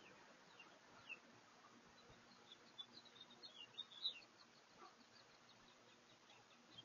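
Small birds chirping faintly, heard through a doorbell camera's microphone: a run of short high chirps, busiest from about two to four and a half seconds in, over a low steady hiss.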